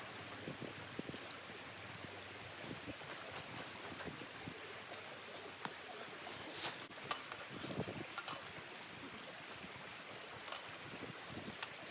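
Steady outdoor hiss, like wind or running water, with a few sharp light clicks and knocks in the second half.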